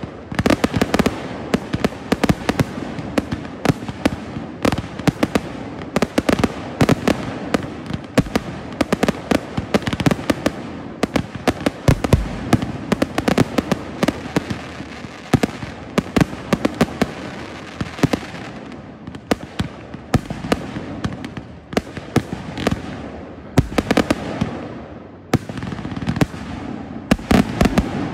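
Fireworks display: aerial shells bursting in a dense, rapid barrage of bangs and crackles, easing slightly for a few seconds past the middle before picking up again.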